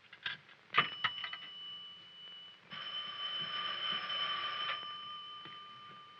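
Electric telephone bell: a few single strikes, then a continuous ring for about two seconds, the tone dying away slowly after.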